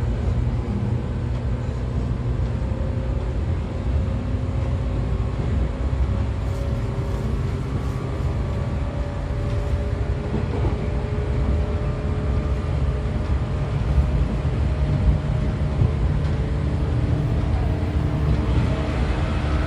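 JR 113 series electric train running: its MT54 DC series-wound traction motors and gearing give a steady whine over the continuous rumble of the DT21B bogies on the rails.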